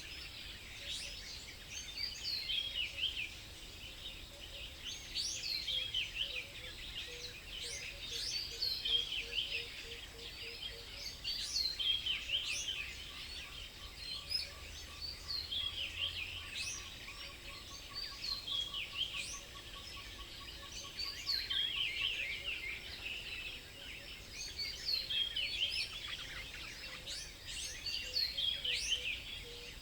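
Songbirds singing outdoors: short phrases of quick, high, falling chirps repeat every two to three seconds. A fainter, lower, even trill runs through the middle.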